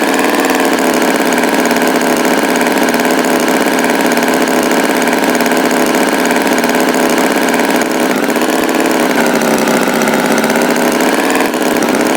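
Tractor engine running steadily at idle, its pitch wavering slightly in the second half.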